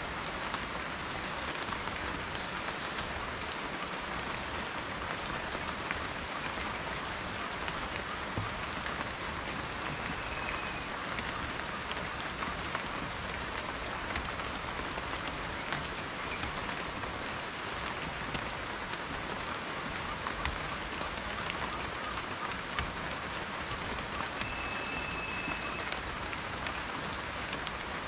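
Steady rain falling, a dense patter of raindrops on a surface. A faint short high tone sounds twice, about ten and twenty-five seconds in.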